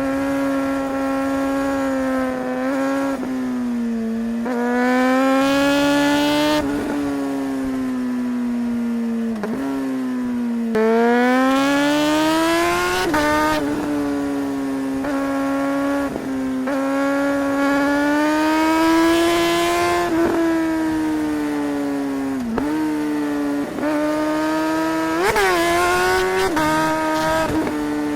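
Suzuki GSR 600 inline-four engine under riding load, its pitch climbing and falling with the throttle, with several brief sharp dips in the note where gears are changed with the quickshifter.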